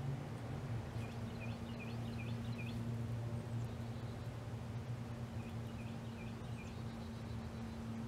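A small bird singing two short phrases, each a quick run of four or five down-slurred whistled notes, a few seconds apart, over a steady low hum.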